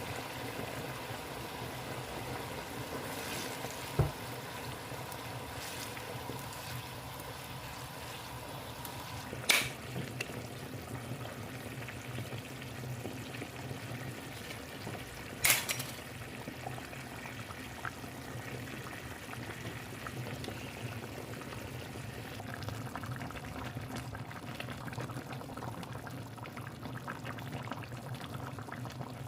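Steady bubbling and pouring of liquid while cooking, with three sharp clinks or knocks spread through it.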